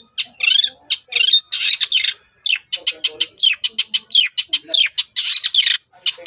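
Long-tailed shrike (pentet/cendet) singing loudly in full voice: a fast, unbroken run of short, harsh, scratchy notes and chatter, several a second, with brief pauses.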